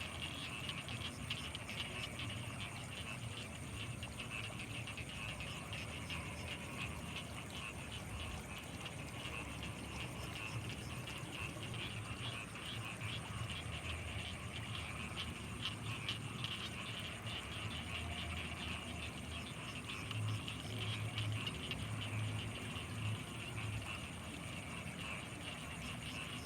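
Night chorus of frogs and insects in rice fields: a steady, dense trilling over a continuous thin high tone, with low pulsing calls underneath that grow louder about twenty seconds in.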